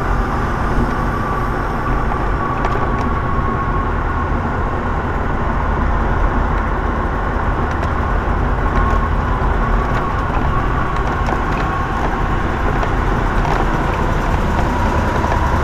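Semi truck driving, heard from inside the cab: a steady engine and road rumble with a faint steady whine over it.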